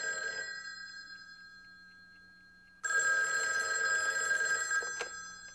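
Telephone bell ringing twice. The first ring fades out over the first two seconds, and a second ring starts about three seconds in and lasts over two seconds.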